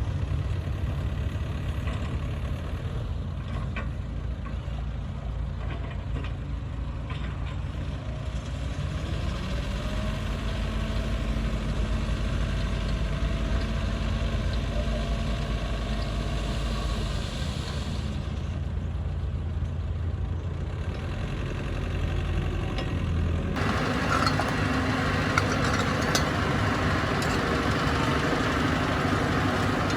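Bulldozer diesel engine running steadily, its pitch rising for a few seconds about a third of the way in. A little past two-thirds of the way through, the sound changes abruptly to a brighter, noisier engine sound.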